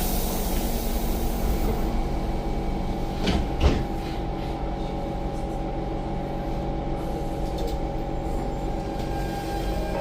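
Interior of a Siemens C651 metro car standing at a platform: a steady hum from the air-conditioning and on-board equipment, with a hiss in the first two seconds as the doors close and two sharp knocks about three and a half seconds in.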